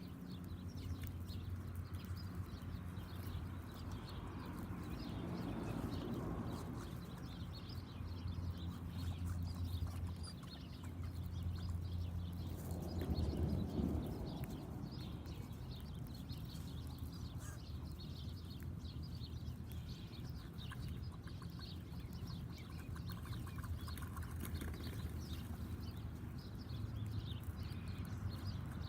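Backyard birds with many short chirps and taps, over a low hum that drops in and out several times.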